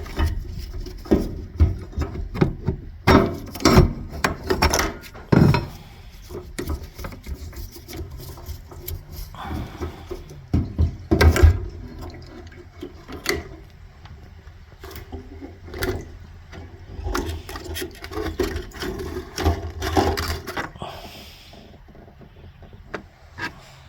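Hand tools working on a car's fuel pump mount: irregular clicks, knocks and scraping, with a few sharper knocks in the first six seconds and again about eleven seconds in.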